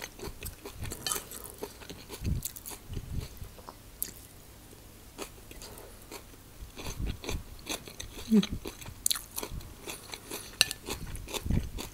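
A person chewing a mouthful of quinoa salad with cucumber and corn close to the microphone: soft wet crunching and many small mouth clicks.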